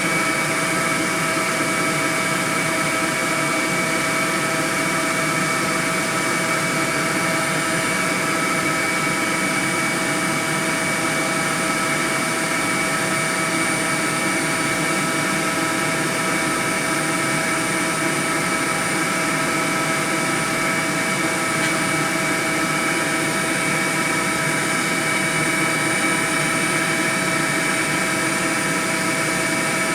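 Honey bee swarm buzzing, a dense steady hum of many bees in flight with no breaks.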